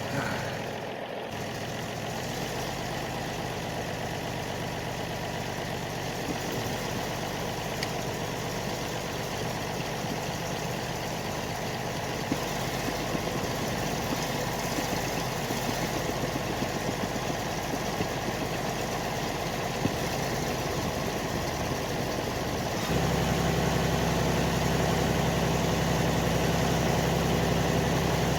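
Tractor engine running steadily, with scattered light clicks. About four-fifths of the way through it suddenly gets louder with a stronger low note.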